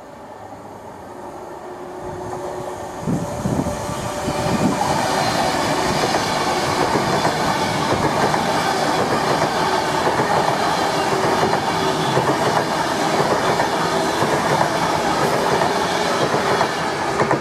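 Class 390 Pendolino electric train approaching and passing through a station at speed. Its noise grows over the first few seconds, then holds steady and loud with the rush of wheels on rails as the carriages go by.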